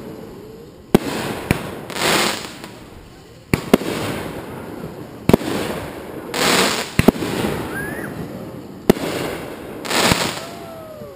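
Aerial fireworks shells bursting: about eight sharp bangs at irregular intervals of one to two seconds, and three longer rushing, crackling bursts as the glittering stars spread.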